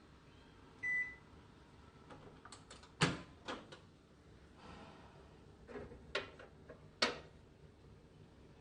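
Panasonic NN-ST25JWYPQ microwave oven beeps once, about a second in. A series of sharp clicks and knocks follows, with the loudest a little after three seconds and again near seven seconds.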